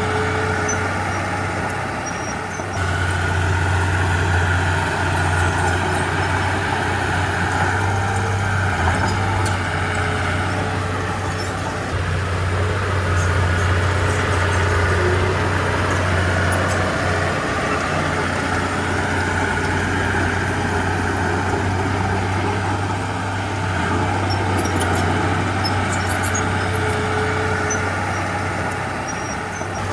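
Komatsu D31P bulldozer's diesel engine running steadily under working load, growing louder about three seconds in and easing slightly a few times as the load changes.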